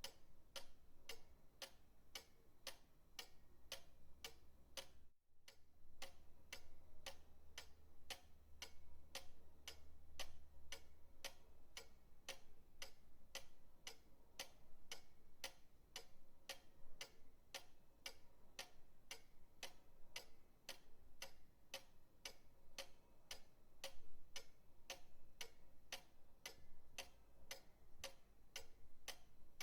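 Pendulum clock ticking steadily at about two ticks a second, with a brief dropout about five seconds in.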